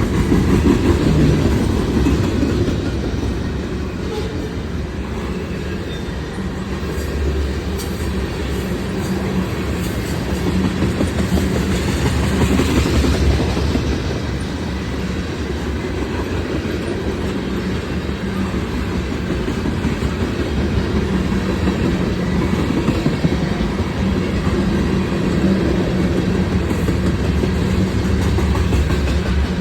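Freight cars of a long freight train rolling past close by, a continuous rumble of steel wheels on the rails with clickety-clack over the rail joints.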